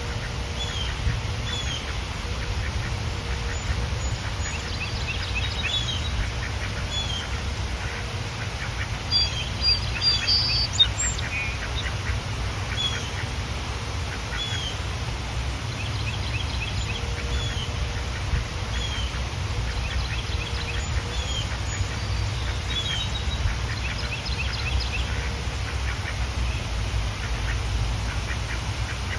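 Ducks quacking in short runs, with a small bird repeating a brief chirp every second or two. The calls grow busier and louder around the middle, over a steady low rumble.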